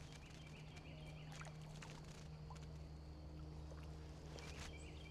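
Quiet creekside outdoor ambience: a steady low hum with scattered small clicks and faint bird chirps, once early on and again near the end.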